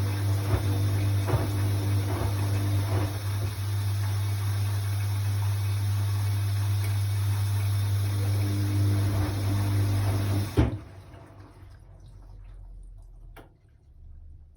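Hoover washing machine's drain pump humming steadily with water gurgling through it, then cutting off abruptly with a clunk about ten and a half seconds in. A faint click follows a few seconds later.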